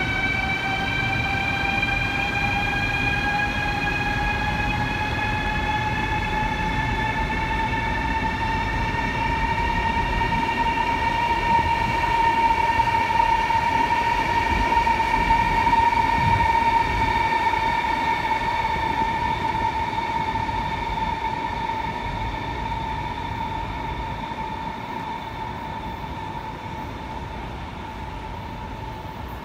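Chinese CRH-type high-speed electric train moving through a station: the whine of its electric traction drive rises in pitch over about the first ten seconds as the train gathers speed, over a low rumble from the running gear. The sound is loudest in the middle and fades toward the end as the train moves off.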